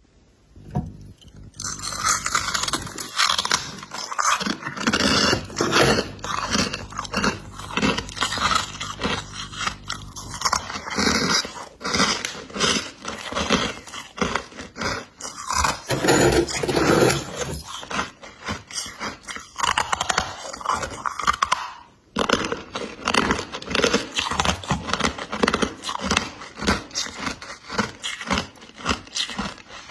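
Freezer frost being bitten and chewed close to the microphone: dense, rapid crunching that starts about a second and a half in, with a brief break about two-thirds of the way through.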